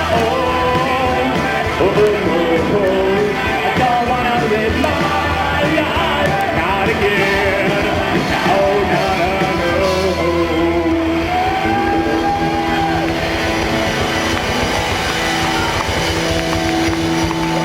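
Live rock band playing an instrumental passage: electric guitars, bass and drums. Long held notes ring out in the second half.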